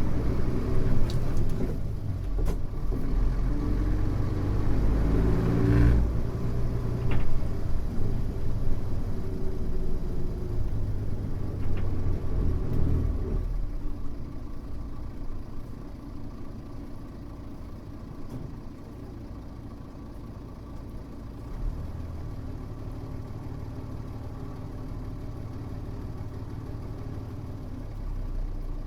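Mitsubishi Fuso U-MK618J route bus's diesel engine heard from inside the cabin, pulling under way with a few light knocks and rattles. About halfway through the engine note drops to a quieter, steady run, as when the bus eases off and idles.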